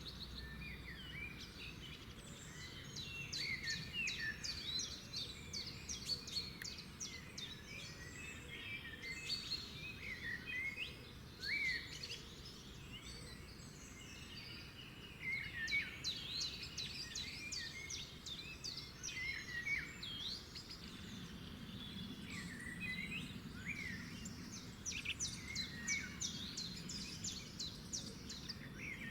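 Several songbirds singing together: rapid high trills coming in bouts a few seconds long, with short chirps and whistled notes scattered between them, over a faint steady background hum.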